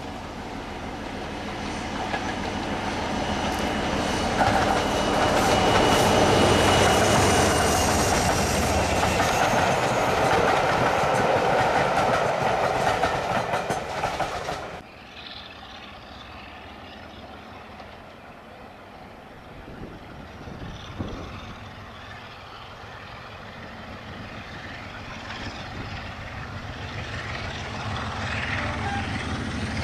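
Diesel-hauled train passing, growing louder to a peak about six seconds in, with wheels clattering over rail joints. It cuts off suddenly about halfway, and a quieter engine sound slowly builds up.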